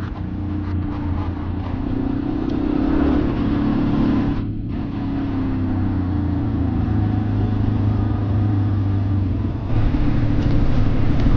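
Motorcycle engine running steadily while riding, its pitch wavering slightly. The higher noise drops out briefly about four and a half seconds in, and the sound gets louder near the end.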